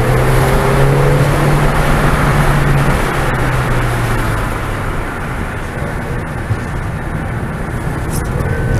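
Ford Fiesta ST's turbocharged four-cylinder engine pulling hard under throttle, a steady drone heard from inside the cabin, which fades about four seconds in as the driver lifts off to slow for a corner, leaving road, tyre and wind noise.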